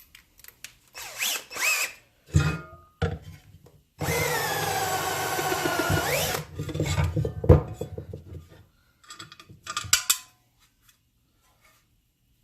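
Power drill running a countersink bit in short bursts, the longest about two seconds, with its pitch dropping as it bites and rising again as it frees up, to countersink freshly drilled holes so bevel-head screws sit flush.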